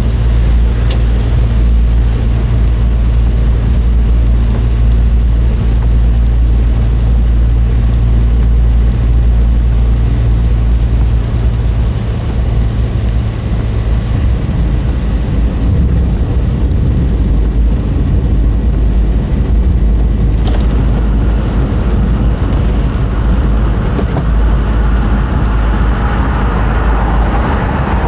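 Car driving: a steady low rumble of engine and road noise, with two sharp clicks, one near the start and one about two-thirds of the way in, and a hiss that grows toward the end.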